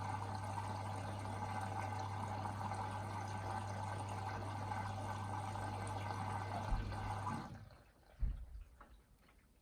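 Hoover VHD 9163 washer-dryer's water inlet valve filling the drum for the final rinse: water rushes in over a steady electrical hum. Both cut off sharply near the end, and a single low thump follows.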